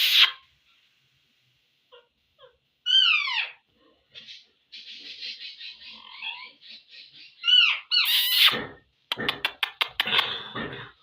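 Ringneck parrot calling and chattering: two loud calls that slide steeply downward in pitch, a run of fast, mumbling chatter between them, and a quick series of sharp clicks near the end.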